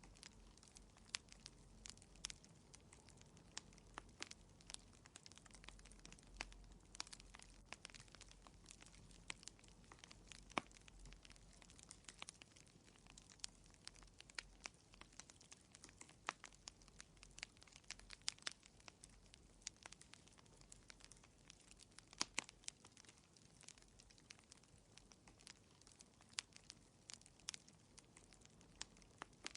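Wood fire crackling in a fireplace: faint, irregular sharp pops and snaps over a low hiss.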